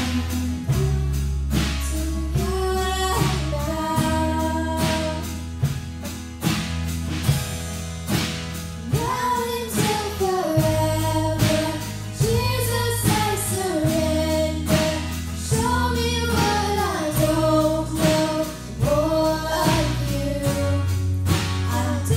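Live worship band: young female voices singing the melody over strummed acoustic guitars, held bass notes and a drum kit keeping a steady beat.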